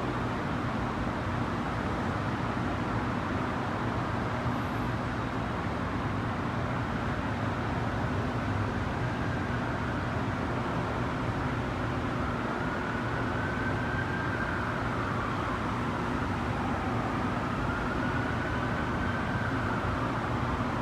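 A motor vehicle engine running steadily, with a faint whine that rises and falls slowly over several seconds.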